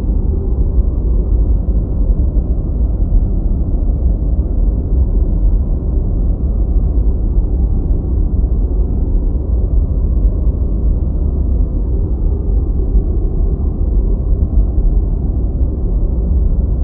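Deep white noise: a steady, unchanging rushing sound weighted low, with a strong rumble and no high hiss.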